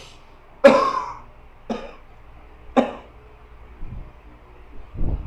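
A man coughing in short, sharp bursts about a second apart, the first the loudest, with a low thump near the end.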